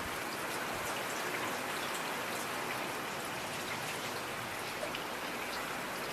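Steady rain falling, an even hiss with individual drops ticking on a surface.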